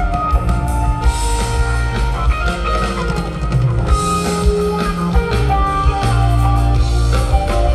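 Live rock band jamming: electric guitar lines over bass and drum kit, with no singing.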